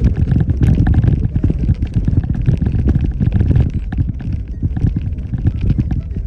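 Jeep Wrangler JKU Rubicon driving a rough trail: a loud, uneven low rumble with irregular knocks, easing slightly in the second half.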